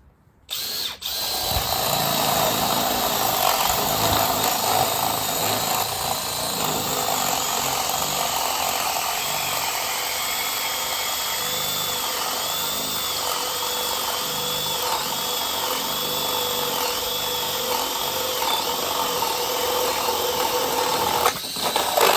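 Makita 18V cordless drill running in high speed, boring a 1.5-inch spade bit through pressure-treated lumber; the motor's whine wavers up and down as the bit loads and frees in the wood. It starts about half a second in and stops near the end.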